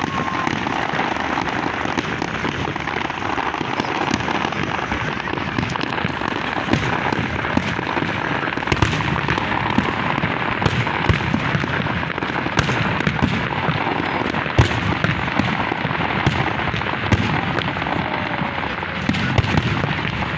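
Fireworks display in full swing: a continuous crackle of bursting shells, with many sharp pops and bangs among it.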